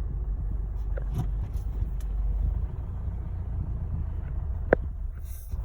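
Steady low rumble of a motor vehicle's engine and road noise, with a few light clicks and one sharp tick near the end.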